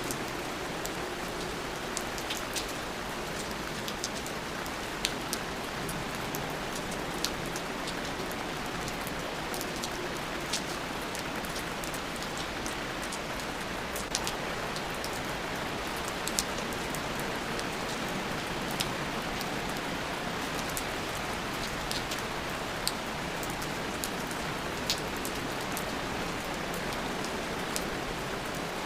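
Steady rain falling, with scattered single drops ticking sharply and close every second or two.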